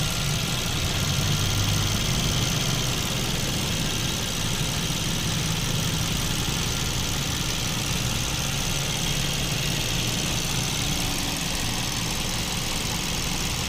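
Mazda CX-5's four-cylinder engine idling steadily, heard up close in the open engine bay.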